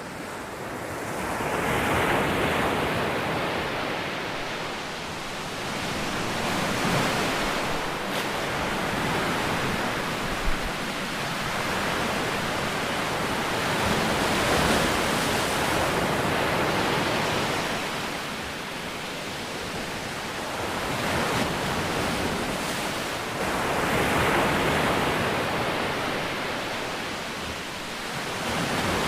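Ocean waves breaking and washing on a shore, a steady rushing hiss that swells and ebbs every several seconds, with one brief sharp splash about ten seconds in.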